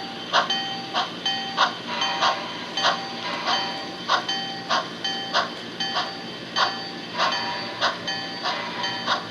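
HO scale model train's wheels clicking over rail joints in an even rhythm, a little under two clicks a second, each click ringing briefly, over a steady low hum.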